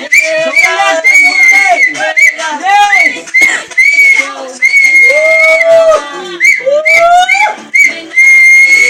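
Loud whistling: a high note held and broken off again and again, with lower whistled notes that glide upward at times, amid voices.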